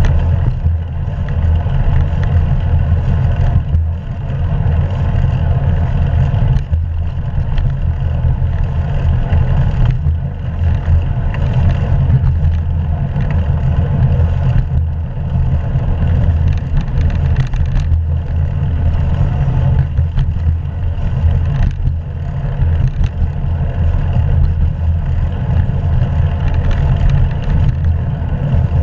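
Steady wind buffeting and road rumble on a camera mounted on a moving bicycle, loud and low-pitched throughout.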